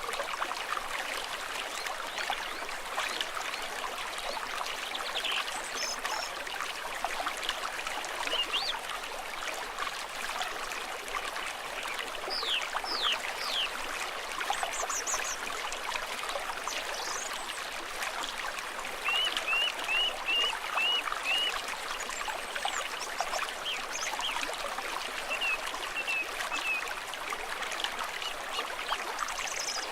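Small stream trickling and burbling steadily. Short high chirps sound now and then over it, with a quick run of about seven chirps about two-thirds of the way through.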